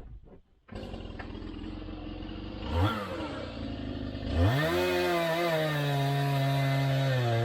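A small two-stroke engine, most like a chainsaw, running: a brief rising note about three seconds in, then from about four and a half seconds it comes up to a high steady speed, dipping briefly near the end, over a lower steady engine hum.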